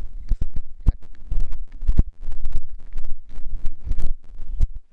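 Wind buffeting the microphone: a loud, uneven low rumble broken by frequent sudden thumps and crackles.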